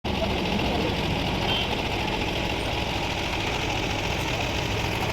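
Steady rush and rumble of a waterfall's falling water.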